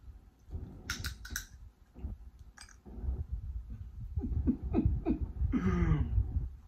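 Close-miked chewing and wet mouth clicks from eating boiled lobster, followed about four seconds in by short wordless voiced sounds of enjoyment that bend in pitch.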